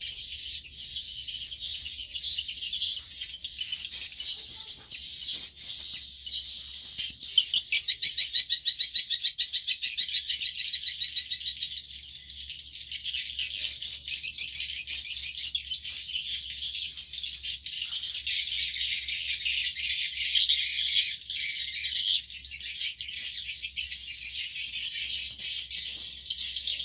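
Many swiftlets chattering and twittering at once, with high-pitched rattling trills; a fast, evenly pulsed trill is loudest about eight to eleven seconds in.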